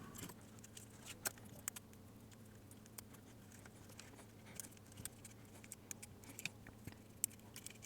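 Faint, scattered small clicks and taps of hands working small console parts and thin wires, irregular and spread through the whole stretch, over a low steady hum.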